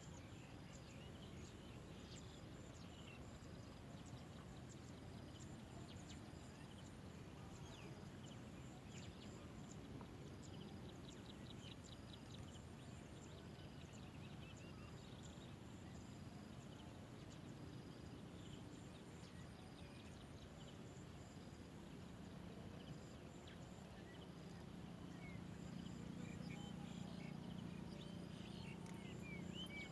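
Faint outdoor background with scattered high bird chirps and a faint, evenly repeating high tone. A low hum grows louder near the end.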